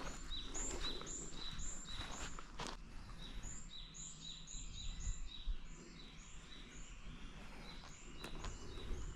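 A small songbird singing a quick, high two-note phrase over and over, with a short break about six to eight seconds in. Footsteps sound in the first few seconds and again near the end.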